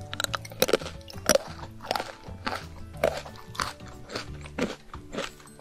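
Crisp crunches of teeth biting into a thin chocolate cookie, then steady crunchy chewing about twice a second, close to the microphone. Soft background music plays underneath.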